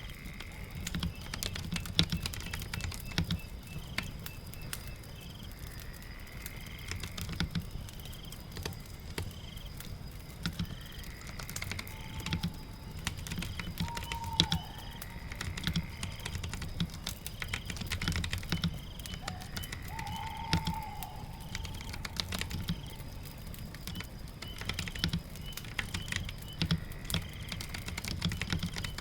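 Typing on a computer keyboard: irregular key clicks and heavier keystrokes over a steady patter of rain. Short whistle-like glides come and go in the background every second or two.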